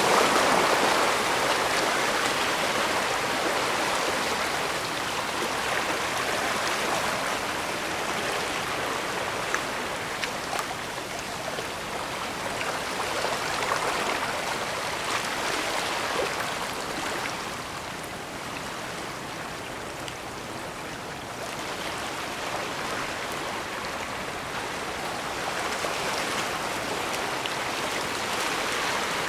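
Small waves washing in and out at the edge of the bay: a steady rushing hiss that swells and fades every few seconds.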